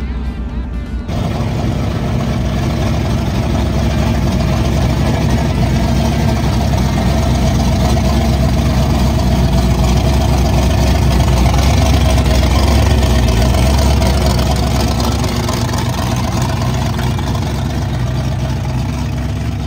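Supercharged V8 in a Dodge Dart running with a deep, heavy exhaust note. It swells a little louder toward the middle, then settles back.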